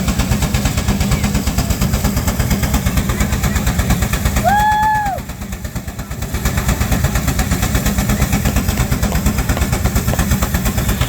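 Steam engine working hard on the belt against a Baker fan, its exhaust beating in a rapid, steady rhythm. A short steam whistle blast about four and a half seconds in, sliding up in pitch at the start and down at the end.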